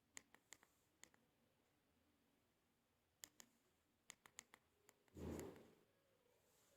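Near silence with scattered faint clicks in small clusters and one short, soft burst of noise about five seconds in.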